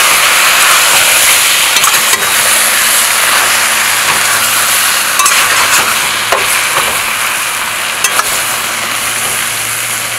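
Chicken pieces sizzling as they stir-fry in curry in a stainless steel pot, stirred with a metal spoon that clicks against the pot a few times. The sizzle eases off slightly toward the end.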